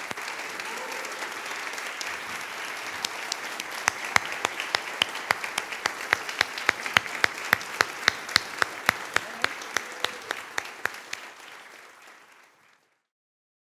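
Audience applauding. From about four seconds in, sharp claps stand out at a steady beat of about four a second. The applause fades out near the end.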